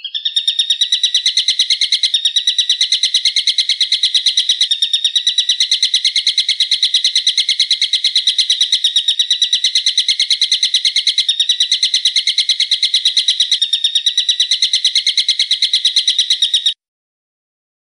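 A bird call repeated in a fast, unbroken train of sharp, high notes, several a second, that cuts off suddenly near the end.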